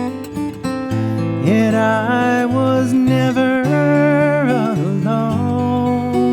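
Folk song on strummed acoustic guitar, with a held, wavering vocal line over the chords that slides down and back up before settling.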